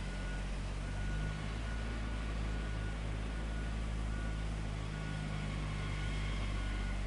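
Heavy machinery's diesel engine running steadily with a low drone, and a faint high beep that comes and goes about once a second.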